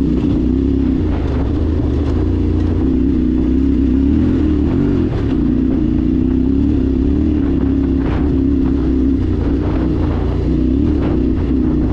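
The T7's engine running at a steady road speed: a continuous loud drone that wavers slightly in pitch, with a low rumble beneath.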